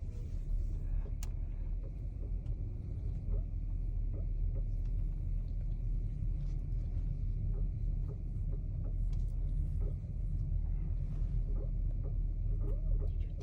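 Steady low rumble of a 2022 BMW X5 running, with scattered light clicks from the steering, one sharper click about a second in: a steering clicking fault that shows after a long drive.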